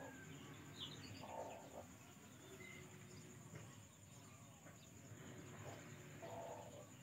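Faint rural background: birds calling now and then, a few short high chirps and two soft lower calls, over a steady thin high tone.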